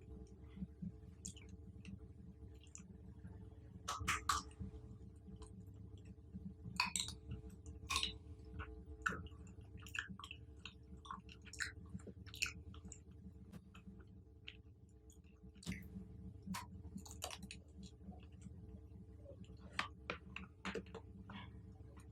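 Close-miked chewing and biting of fruit: irregular crisp crackles and mouth clicks, with a few louder bites about four seconds in and again around eight seconds, over a steady low hum.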